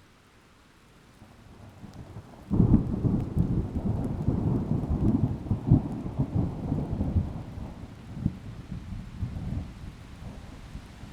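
Thunder: a low rumble builds faintly from about a second in, breaks into a sudden loud clap about two and a half seconds in, rolls heavily for several seconds, then fades away in smaller rumbles. A faint steady hiss of rain lies underneath.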